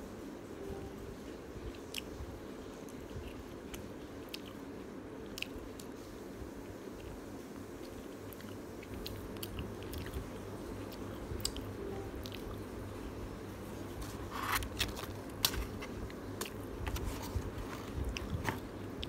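Close-miked eating: biting into and chewing a spicy chicken drumlet, with scattered wet mouth clicks. The clicks come thicker in the last few seconds.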